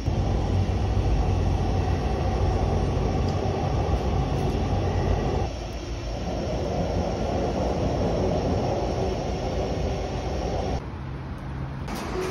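Electric commuter train running past on the tracks with a steady low rumble of wheels on rail. The sound drops abruptly about halfway through and again near the end.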